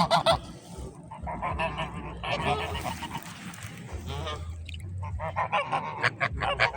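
Geese honking repeatedly, several calls overlapping in bursts.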